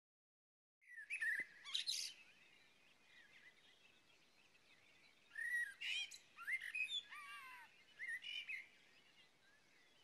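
Small birds chirping and whistling in short bursts, starting about a second in, then a busier run of calls from about five to eight and a half seconds, over a faint outdoor hiss.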